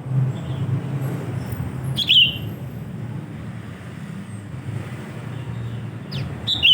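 Sooty-headed bulbul (kutilang) giving short, loud chirping calls, one about two seconds in and another with a few quick chirps near the end, over a steady low rumble like distant traffic.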